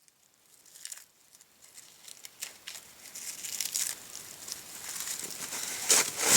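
Campfire crackling, fading in from silence and growing louder, with irregular sharp snaps and pops.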